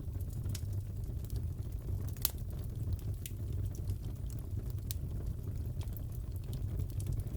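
Crackling fireplace: the steady low rumble of a wood fire with scattered sharp crackles and pops, one louder snap about two seconds in.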